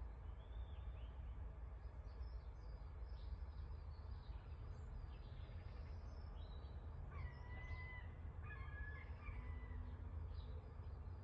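Small birds chirping in the background over a steady low rumble. About seven to nine seconds in, a few louder, level-pitched calls from another bird stand out.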